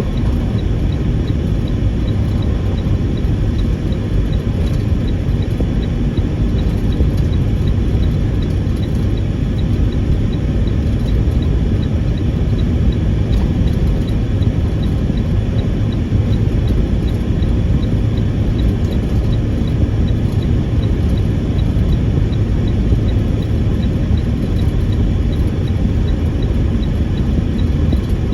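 Semi truck driving on a snowy highway: a steady low engine and road rumble that does not let up.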